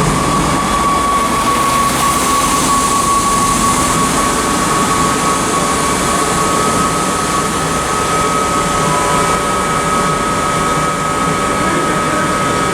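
Class 165 Turbo diesel multiple unit standing at the platform with its engines running: a steady rumble under a high whine that creeps slightly up in pitch, with a second, lower tone joining about nine seconds in.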